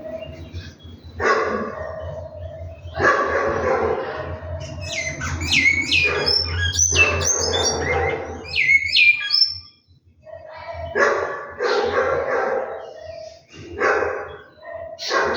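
Bicudo (great-billed seed finch) singing a run of clear whistled notes that sweep down, from about five to nine seconds in. Before and after the song come louder, rougher bursts of another animal's call, and a steady low hum runs underneath.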